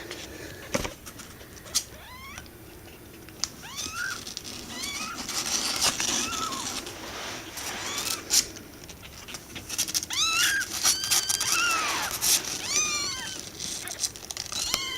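Young kittens mewing over and over, short high-pitched calls that rise and fall, coming thicker in the second half. It is the calling of a kitten that has strayed from its mother and is crying for her.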